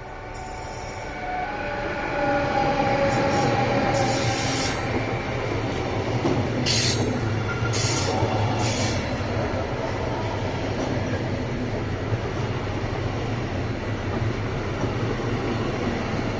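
A train approaching and passing along the track, the rolling noise swelling over the first two seconds and then holding steady, with several short high-pitched squeals from the wheels.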